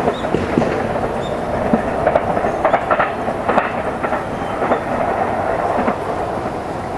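A train running past, its wheels clacking irregularly over rail joints above a steady rolling rumble.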